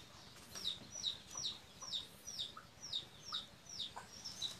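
A bird's short high chirps, each sliding downward in pitch, repeating steadily about two to three times a second.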